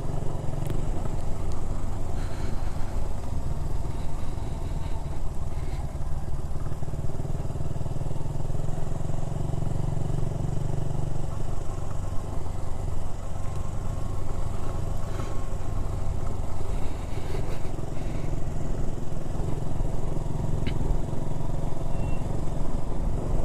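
Motorcycle engine running steadily while being ridden, with a low drone that eases a little about halfway through.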